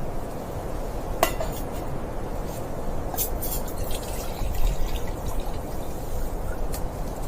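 Steady low wind rumble with a few light clinks and taps from small hard objects being handled: one about a second in, a quick cluster around three seconds, and one near the end.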